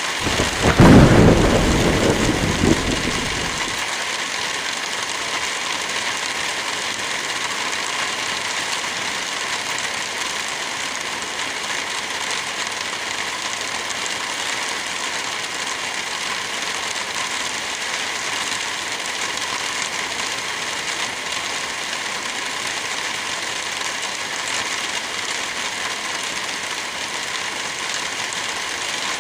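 A loud clap of thunder rumbles during the first few seconds, then dies away, leaving steady heavy rain.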